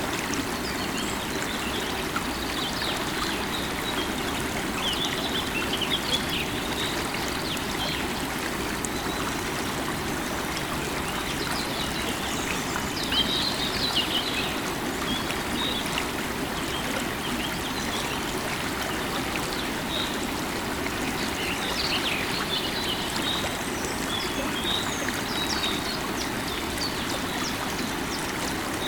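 River water running in a steady rush, with birds chirping on and off throughout.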